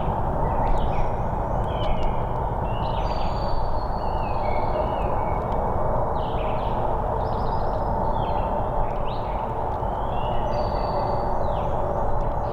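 Several songbirds singing in short repeated phrases over a steady low rumble.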